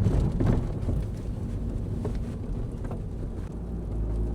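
Camper van driving: a steady low engine hum under road and wind noise.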